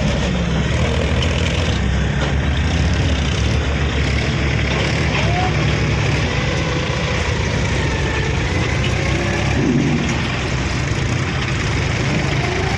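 Heavy diesel engine running steadily at low speed, with a deep, even drone.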